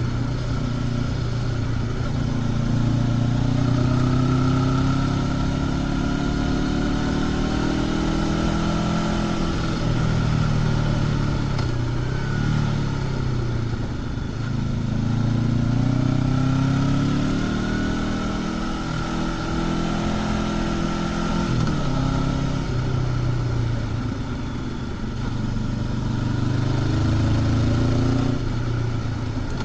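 Honda CB500X's parallel-twin engine through its stock exhaust, heard from the rider's seat, revving up and down repeatedly as the bike accelerates and eases off, with clear drops in revs twice. Steady wind and road noise runs underneath.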